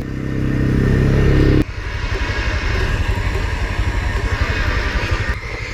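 An off-road vehicle's engine held at high revs, then dropping suddenly about a second and a half in to a lower, uneven idle.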